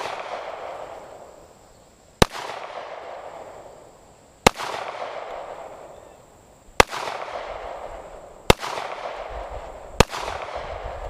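.45 pistol fired five times in slow, deliberate succession, about two seconds apart, each shot sharp and followed by a long fading echo.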